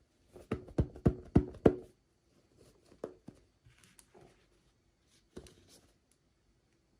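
Five quick knocks on a small hollow object, each with a short hollow ring, followed by lighter clicks and handling sounds of toy packaging.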